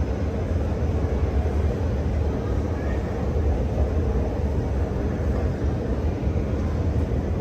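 Steady low rumble of a moving escalator.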